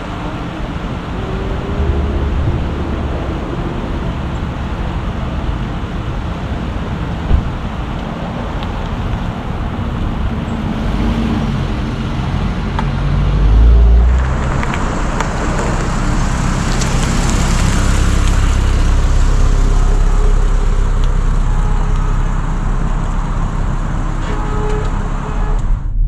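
Car on the move: a steady rumble of engine and road noise with a single sharp click. About halfway through, a deep swell builds, and after it a higher hiss of tyres or wind holds to the end.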